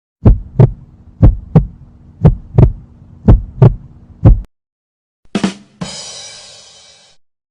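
Heartbeat sound effect: deep paired lub-dub thumps about one beat a second, four full beats and a fifth thump before stopping. A little after five seconds a separate short effect follows, a brief burst and then a fading hiss.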